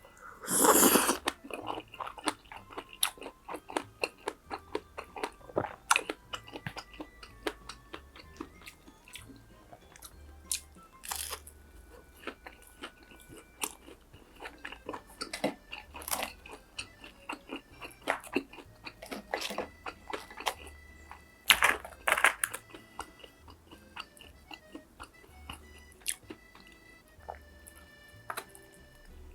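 Close-miked eating: crisp crunching bites and chewing of fried food, with a loud crunch about a second in and a few more loud ones spread through. Quiet background music plays underneath.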